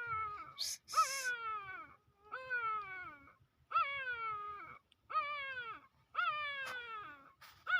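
A young puppy crying over and over, about six high, drawn-out cries, each jumping up and then sliding down in pitch. A brief rustle comes about a second in.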